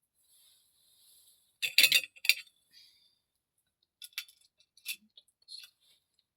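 A candle being set down among hard ritual objects on a table: a quick cluster of glassy clinks about two seconds in, then a few lighter clicks and taps.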